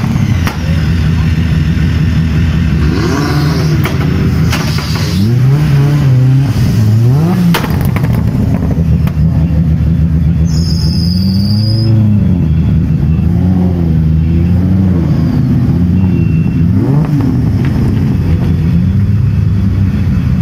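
Modified Japanese drift cars with loud exhausts idling and pulling away one after another, their engines blipped in short rising-and-falling revs every second or two. A brief high chirp sounds about halfway through.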